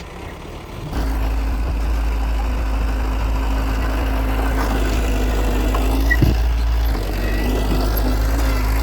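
Heavy diesel engine of earthmoving machinery running steadily, a deep rumble that sets in suddenly about a second in.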